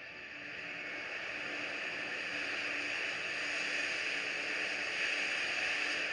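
A steady rushing noise that slowly grows louder over the first few seconds.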